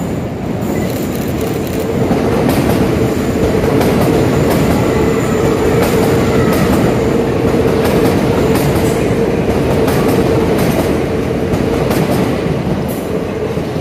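Hitachi Class 803 electric train running past along the platform: a dense rumble of wheels on rail with clicks over the joints and a steady humming tone. It grows louder about two seconds in as the carriages draw alongside, and eases near the end as the last car goes by.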